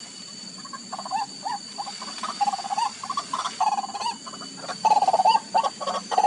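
White-breasted waterhen calling: a run of short, repeated, pitch-bending croaking notes, growing louder from about five seconds in.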